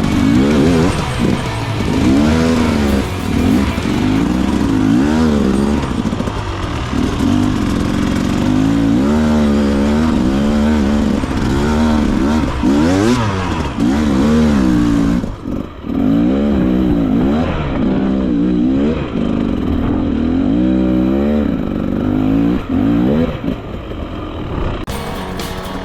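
Dirt bike engine revving up and down over and over, blipped on and off the throttle as the bike is worked through rough, rocky trail. About fifteen seconds in the sound goes duller for several seconds.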